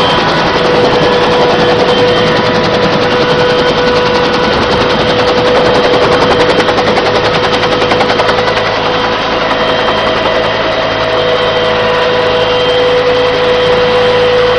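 Helicopter running, its rotor chopping in a fast, steady rhythm under a constant whine.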